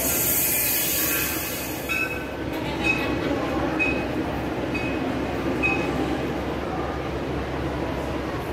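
A train running, with a steady rumble, a hiss in the first two seconds and short high-pitched tones about once a second.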